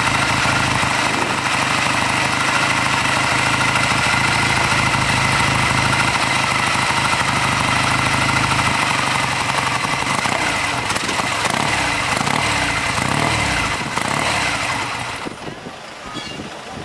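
Classic Triumph motorcycle's parallel-twin engine running at a steady idle, then revved up and down several times on the throttle, before it dies away near the end.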